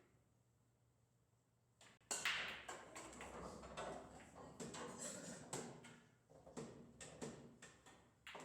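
Pool balls clacking together: a sharp crack about two seconds in, then a run of irregular clicks and knocks for several seconds.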